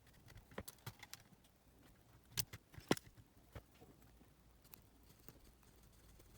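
Scattered small clicks and taps of tools and parts being handled on a workbench, the two loudest about two and a half and three seconds in.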